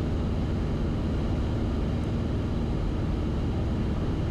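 Cessna 172RG's four-cylinder Lycoming engine and constant-speed propeller droning steadily at reduced power on short final, with airflow noise around the airframe.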